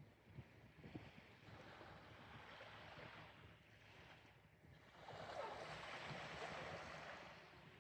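Faint outdoor ambience: a soft wash of noise that swells about a second in and again, more strongly, about five seconds in.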